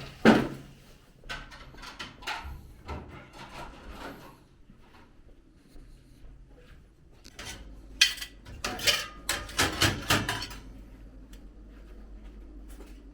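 Cooking pots, dishes and utensils clattering, a string of sharp clinks and knocks with a loud cluster about eight to ten seconds in.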